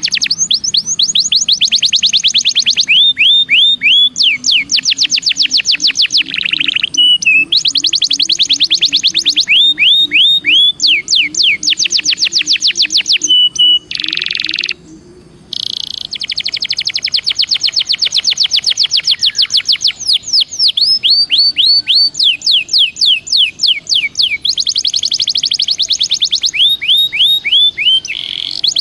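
Belgian canary singing: loud, fast trills of rapidly repeated sweeping notes, one phrase after another, with a short pause about halfway through.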